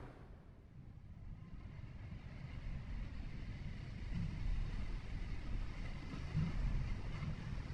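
A car driving: a low rumble of engine and tyre noise that dips at the start and builds back up from about a second in.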